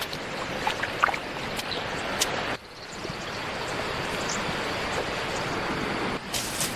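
A steady rush of flowing water, with a few sharp clicks in the first two seconds. The sound cuts off abruptly about two and a half seconds in and resumes, and breaks again near the end.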